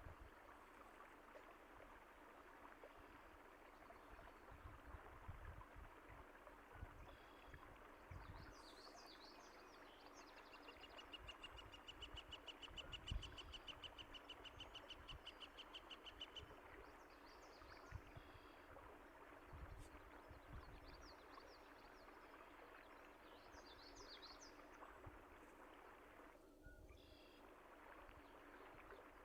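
Steady rush of a flowing stream with birds chirping over it now and then, including a rapid, even trill lasting about six seconds near the middle. A few low thuds are mixed in.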